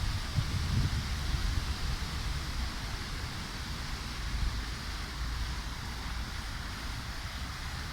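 Wind buffeting the microphone: a low rumble that eases off over the first few seconds, over a steady hiss of wind.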